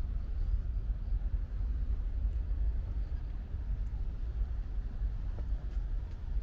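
Outdoor ambience in light rain: a steady low rumble under a soft hiss, with a few faint scattered drop ticks.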